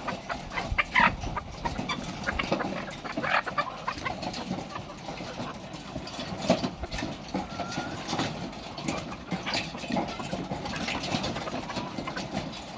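A flock of laying hens clucking and calling, with scattered clicks and knocks among them.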